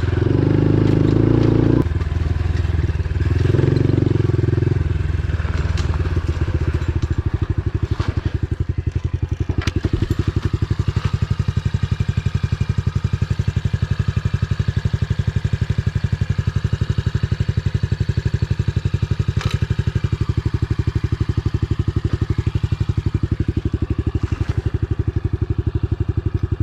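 Pit bike engine running, louder and uneven for the first few seconds, then settling into a steady, evenly pulsing idle. A few sharp clicks stand out over the idle.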